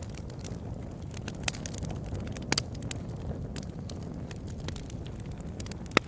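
Wood fire in a fireplace crackling: a steady low rumble of flames with scattered sharp pops, the loudest one near the end.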